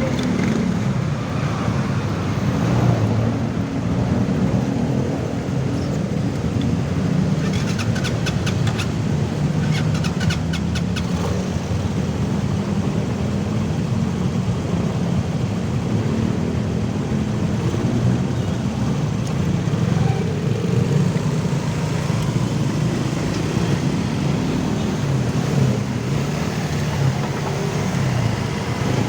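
Steady road and traffic noise heard while riding, a continuous low rumble with no break. A run of rapid ticks comes in from about seven to eleven seconds in.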